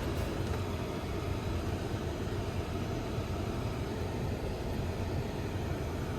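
Vehicle driving along a road: a steady low rumble of engine and tyre noise.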